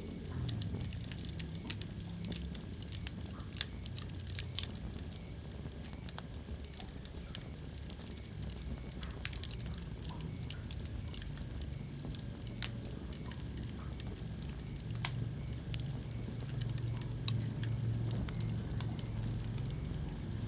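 Wood fire crackling in a fireplace: irregular sharp pops and snaps over a steady low rumble from the burning logs, with a few louder pops about three seconds in, near the middle and about fifteen seconds in.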